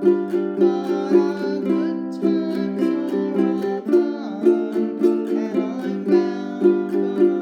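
Ukulele strummed in a steady shuffle rhythm, chord strokes evenly spaced several times a second.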